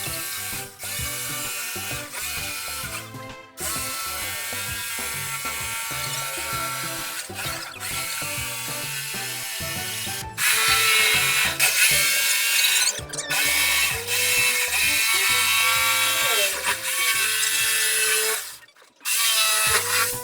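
Firo electric jigsaw running and cutting, in several short edited takes, louder through the second half, over background music with a steady beat.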